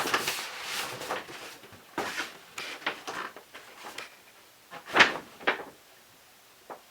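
A series of light knocks and clatters at irregular intervals, the loudest pair about five seconds in, fading to a few faint taps near the end.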